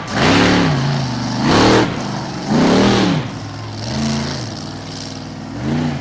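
Monster truck engine revving in repeated blips, each rise and fall in pitch lasting about a second, roughly one every second and a half, the later revs weaker.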